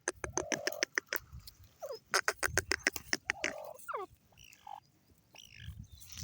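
Grey francolin calling: a rapid series of sharp clicking notes mixed with short downward-sliding notes, easing into a quieter stretch with a few faint notes for the last two seconds or so.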